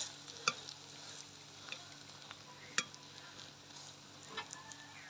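Potato, egg and onion patty frying in a little oil in a metal wok, with a faint steady sizzle. A few sharp clicks and scrapes of a perforated steel skimmer against the pan come as the patty is turned over.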